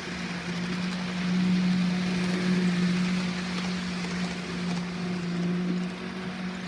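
HO scale model train running around the track on DC power: a steady motor hum with the rattle of wheels on rail, swelling louder for a few seconds as it comes near, then easing.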